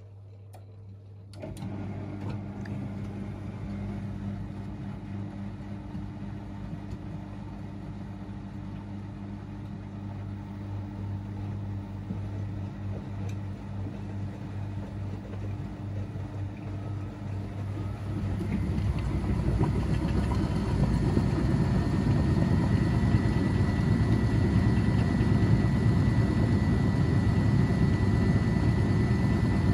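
Front-loading washing machine running: a motor and drum sound starts suddenly about a second and a half in, then about two-thirds through the drum speeds up and the sound gets much louder, with a steady high whine, as the machine goes into a spin.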